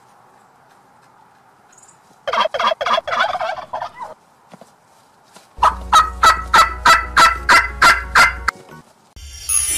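Turkeys gobbling: a burst of gobbling a couple of seconds in, then a longer run of quick, evenly repeated calls, about three or four a second. A different, noisier sound starts near the end.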